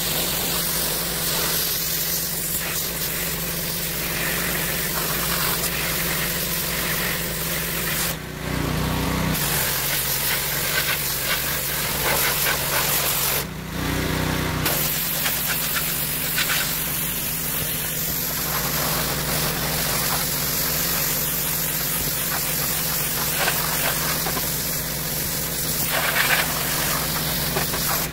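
Gas-engine pressure washer running steadily, with the hiss of its high-pressure spray. The spray stops twice for about a second, as the trigger is let go, and the engine note shifts each time.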